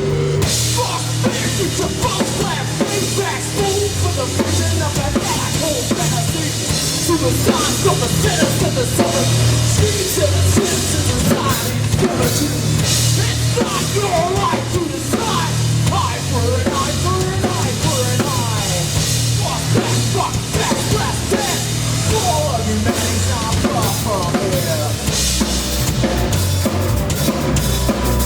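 A live heavy rock band playing an instrumental passage with no vocals: a full drum kit with bass drum and snare drives it under a sustained bass line and keyboards.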